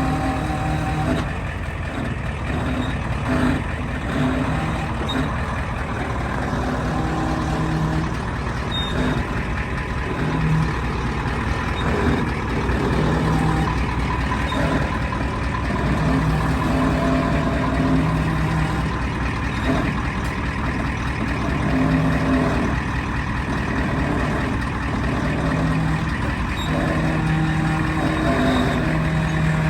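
A large pickup truck's engine running steadily, with on-and-off steady tones sounding over it.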